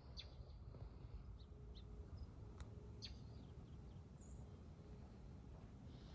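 Faint, scattered bird chirps, short and high, over a low, steady background rumble.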